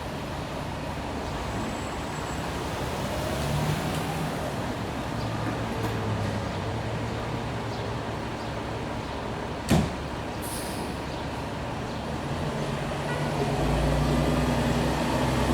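Heavy fire-truck diesel engine running amid street traffic, with a sharp knock about ten seconds in and a brief hiss just after. The low engine rumble grows louder near the end.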